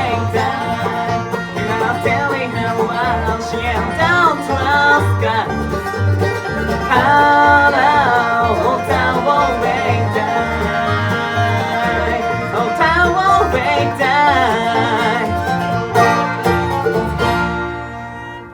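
Bluegrass band playing an instrumental passage, banjo and guitar picking over low bass notes. Near the end it closes on a final chord that dies away.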